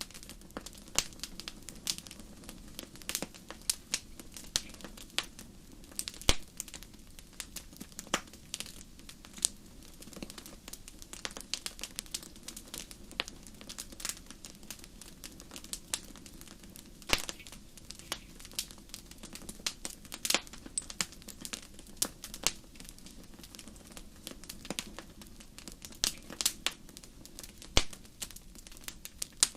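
Wood fire in a fireplace crackling: irregular sharp snaps and pops over a low steady hiss, with a few louder pops scattered through.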